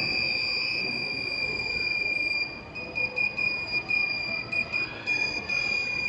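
Piezo buzzer on an Arduino obstacle-warning model sounding a high, steady tone that breaks into uneven rapid beeping about two and a half seconds in: the alarm signalling that the ultrasonic sensor has detected an obstacle on the track.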